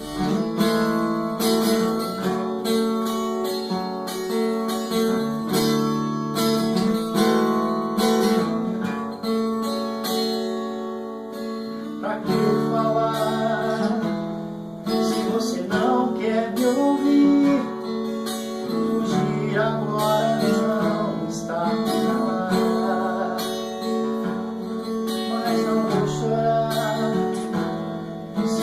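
Acoustic guitar strumming chords over sustained backing tones: the instrumental introduction of the song, before the vocal comes in.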